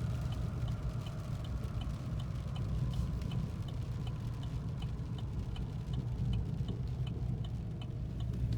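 Rumble of a 2018 Chevy Silverado's 5.3 L V8 through true dual exhaust with no mufflers or resonators, heard inside the cab while the truck slows and downshifts. A steady light ticking runs over it, about three ticks a second.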